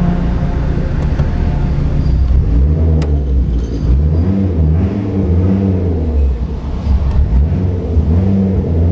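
Volvo 850R's turbocharged inline-five engine, heard from inside the cabin: it runs steadily at idle, then is revved up and down several times from about two and a half seconds in.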